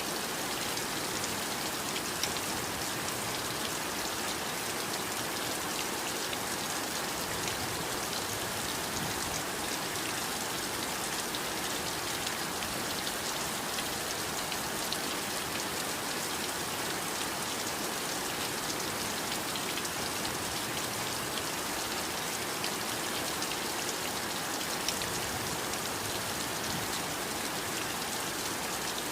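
Heavy rain falling steadily: an even hiss with faint scattered drop ticks, unchanging throughout.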